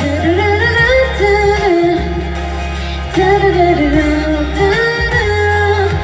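A woman singing a held, wordless pop-ballad melody over a backing track with a steady bass.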